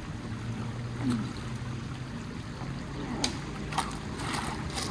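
River water running and splashing around someone wading across, with two sharp knocks a little past the three-second mark.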